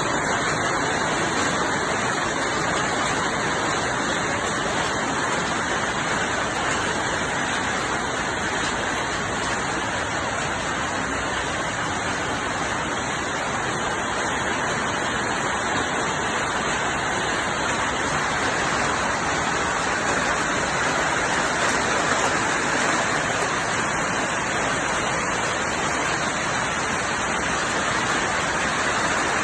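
Hail and heavy rain falling, a steady dense hiss that holds evenly with no let-up.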